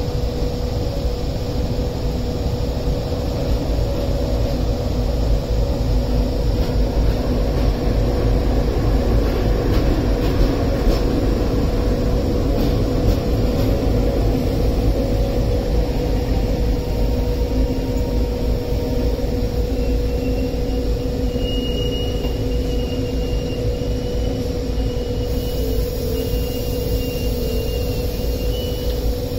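Trains at a railway platform: a steady low rumble under a constant mid-pitched hum. A faint high whine comes and goes over the last several seconds.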